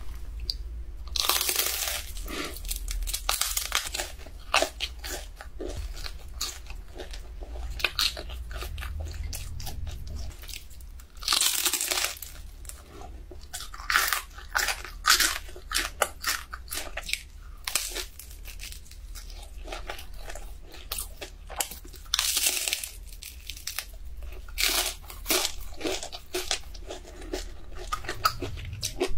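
A person biting into and chewing crispy deep-fried dumplings: crisp crunches at several bites, the loudest about 2, 12, 14 and 22 seconds in, with steady chewing and mouth clicks between.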